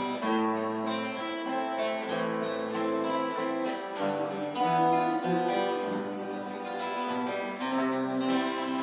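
Steel-string acoustic guitar strumming chords in a steady rhythm, with no singing.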